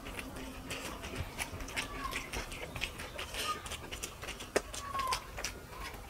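Mouth-close eating sounds: wet chewing and lip-smacking clicks from people eating rice and fish curry with their hands, with fingers squishing rice on the plates. A few brief faint squeaky tones come and go.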